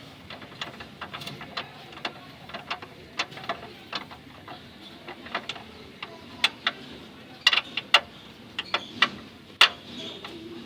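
Irregular metallic clicks and clinks of hand tools at work on the engine-mount bolts, a few a second, with the loudest strikes in the second half.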